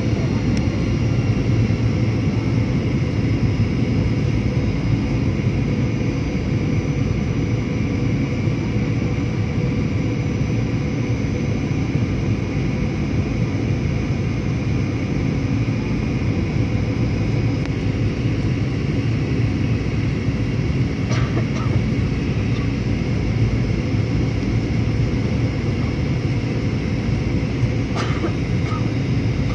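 Steady engine and air rumble heard inside an airliner cabin in flight, with a few faint clicks late on.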